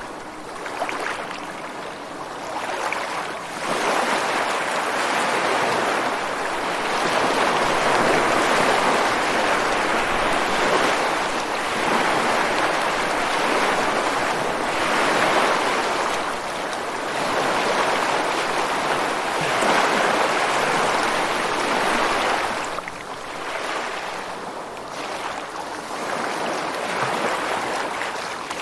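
Ocean waves breaking on a rocky shore, a continuous wash of surf that swells and recedes every few seconds, heaviest through the middle and easing near the end.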